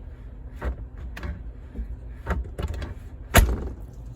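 Knocks and clunks from working on a car's hood, with one loud thud about three and a half seconds in.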